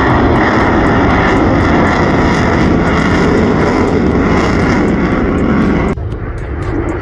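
Loud, steady engine noise of display aircraft flying at the airshow. It cuts in and out abruptly, stopping about six seconds in.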